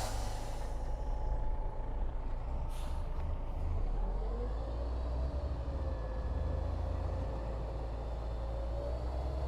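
Bulldozer's diesel engine running steadily with a low rumble and a faint, slowly wavering whine, and a brief hiss about three seconds in.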